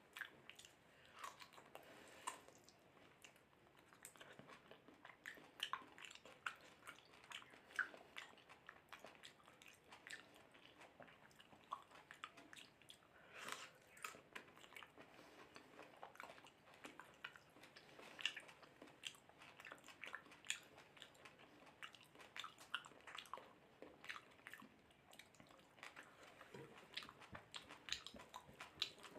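A person eating close to the microphone: wet chewing, lip smacks and occasional crunchy bites of mutton curry with rice, in irregular quick clicks and squelches.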